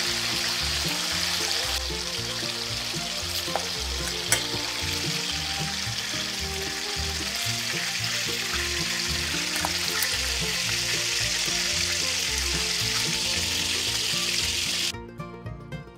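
Pork chops frying in hot oil in a stainless steel pot: a steady sizzle, with a few sharp clicks of metal tongs against the pot as the pieces are lifted out. The sizzle cuts off suddenly near the end.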